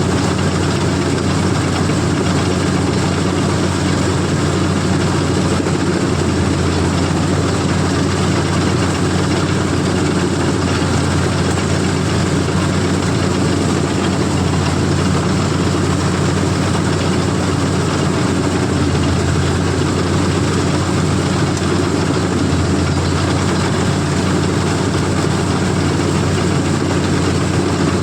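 CLAAS combine harvester's diesel engine running steadily with a low, even hum, mixed with the noise of the machine working.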